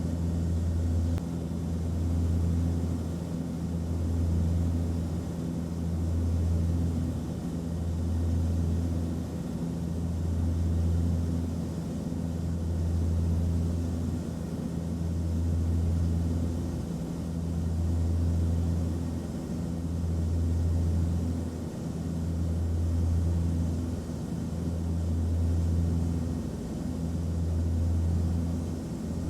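Airplane cabin noise heard from inside: a steady low engine drone with a few low hums that swell and fade together about every two and a half seconds, over a soft even hiss.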